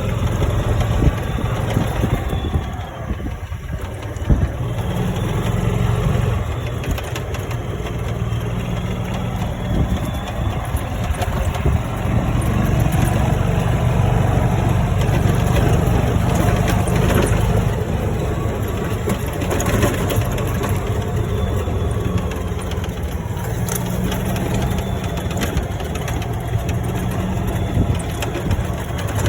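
Golf cart engine running steadily as the cart is driven.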